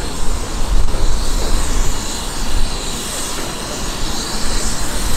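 Railway train running on the line: a loud rumbling noise with no clear beat, dipping a little in the middle.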